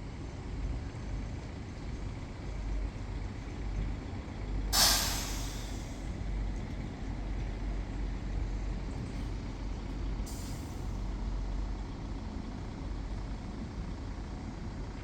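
Steady low rumble of city street traffic, with a loud air-brake hiss from a heavy vehicle about five seconds in and a shorter, fainter hiss around ten seconds.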